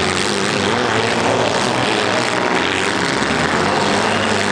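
Engines of several small demolition-derby cars running hard together, a steady, loud engine drone with no clear crash standing out.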